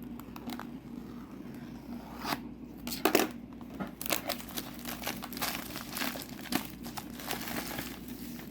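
Plastic shrink wrap on a trading-card booster box crinkling and tearing as it is pulled off by hand: a few light clicks at first, a sharp crackle about three seconds in, then steady crinkling.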